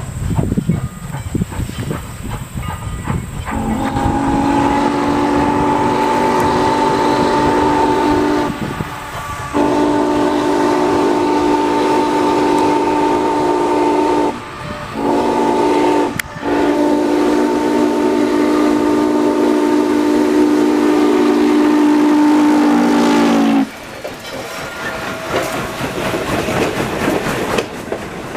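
Steam locomotive's chime whistle sounding a chord of several low tones in four blasts: long, long, short, long, the grade-crossing signal. The rumble and clatter of the moving train run underneath.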